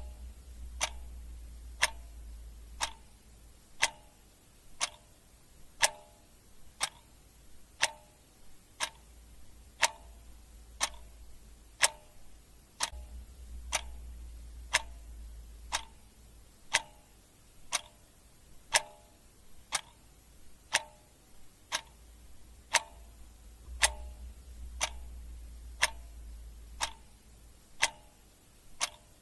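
Clock ticking steadily, about one tick a second, over a faint low rumble that comes and goes.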